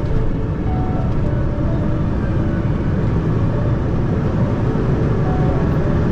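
Steady low rumble of a tractor-trailer truck driving, heard from inside the cab: diesel engine and road noise.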